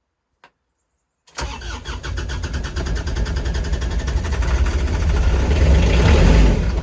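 Kubota RTV900's three-cylinder diesel engine being started in deep cold: a click, then from just over a second in it turns over and catches, running rough with a fast even pulse and growing louder, before falling off right at the end. The owner thinks gelling fuel has been forced into the fuel lines.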